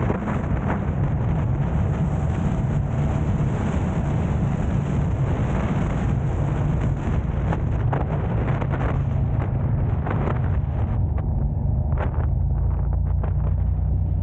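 Car driving on city roads: a steady low rumble of engine and tyre noise, with wind on the microphone and occasional small knocks from bumps.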